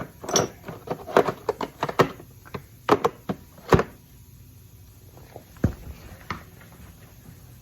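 A run of sharp knocks and clicks, about a dozen in the first four seconds, then only a few scattered ones.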